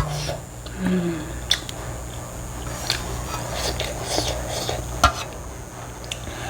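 Mouth-close eating sounds: chewing noodles, with a few sharp clicks of utensils against a bowl.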